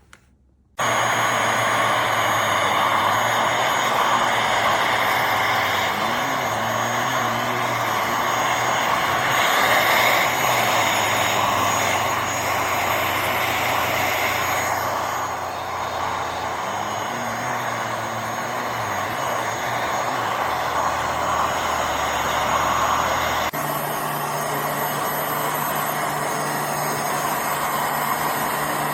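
UWANT M100 futon cleaner switching on about a second in and running with a loud, steady whir. It has two brief wavering shifts in pitch, and near the end the sound changes abruptly to a similar run with a steadier low hum.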